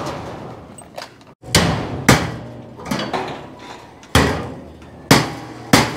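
Hammer blows during construction formwork patching, about six or seven irregular strikes, each ringing out briefly.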